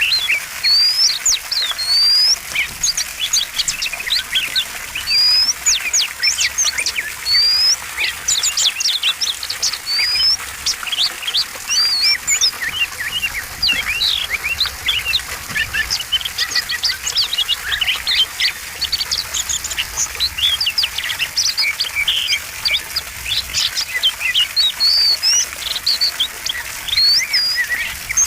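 Oriental magpie-robin (kacer) singing without pause: a fast, varied stream of high whistles, short rising and falling slurs and quick chirps.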